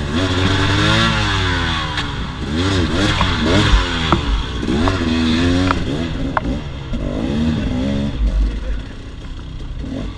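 KTM 300 XC-W's two-stroke single-cylinder engine revving up and down again and again as the bike is ridden, with a few sharp ticks among it. It eases off a little near the end.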